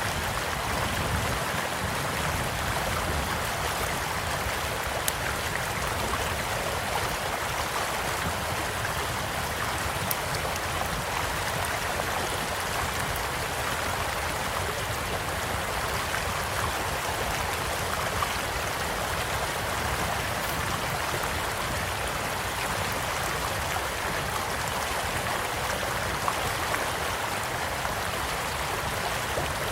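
A small stream flowing steadily, with a campfire crackling beside it and a few sharp pops, the strongest about 5, 10, 18 and 26 seconds in.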